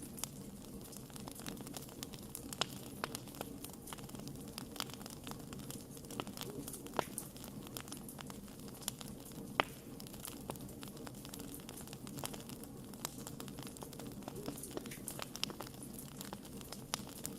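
Wood fire crackling: irregular sharp pops and snaps over a low, steady rush of burning, with one louder pop about ten seconds in.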